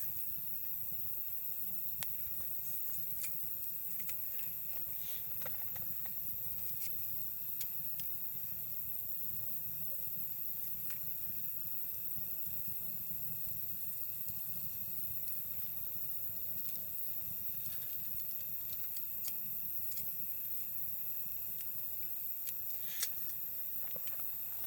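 Wood campfire crackling, with scattered sharp pops and snaps over a steady low rumble, the loudest pop near the end. Insects keep up a steady high-pitched chirring throughout.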